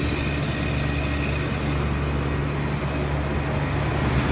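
Two Trane 20-ton commercial split-system condensing units running, with compressors and condenser fans on low ambient kits for the cold weather. The sound is a steady low hum with a faint high whine.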